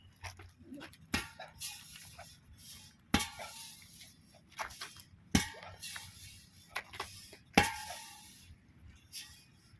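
Four sharp strikes, about two seconds apart, each followed by a brief rattling crash, with lighter knocks in between.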